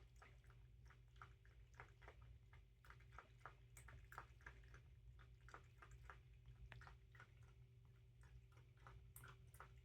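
A cat lapping water from a handheld cup: faint, quick wet clicks, about three to four laps a second.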